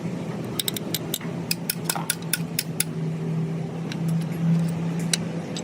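A quick run of about a dozen sharp metallic taps or clinks in the first half, like tools working on engine parts, over a steady low machine hum.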